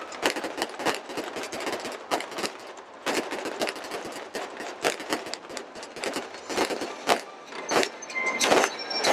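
Aerial fireworks bursting: rapid, irregular bangs and crackles, several a second.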